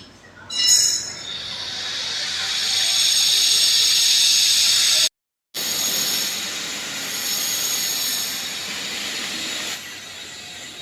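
Heavy rain falling, a steady loud hiss, with a brief high-pitched squeal about a second in.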